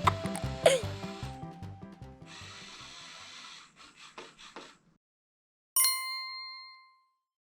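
Background music trails off, followed by a faint rustling or rubbing noise, then a single bright bell-like ding that rings and fades over about a second.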